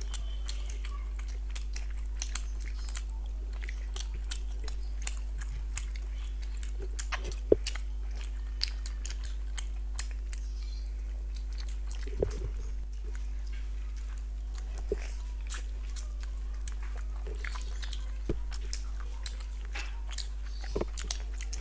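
Two people eating with their hands, chewing and biting luchi, curried chicken gizzards and boiled eggs. The sound is a scatter of short wet mouth clicks and smacks, one sharper click about a third of the way in, over a steady low electrical hum.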